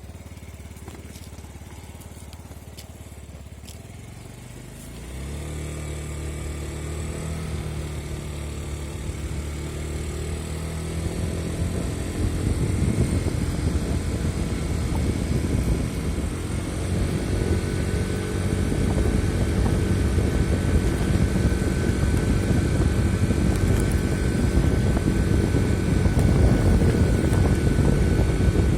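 Yamaha Gear 4T four-stroke scooter engine running; it gets louder about five seconds in and keeps building for several seconds, then holds steady, with a faint steady whine joining partway through. The engine carries an extraneous noise that the owner is trying to pin down.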